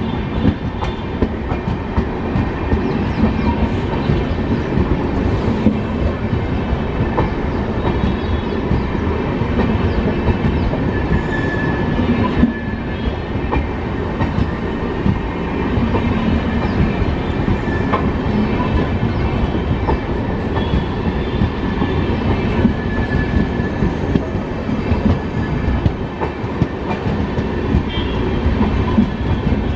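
Empty passenger coaches hauled by a WAP-7 electric locomotive rolling past on the track: a steady rumble of wheels on rail with repeated small clicks and knocks.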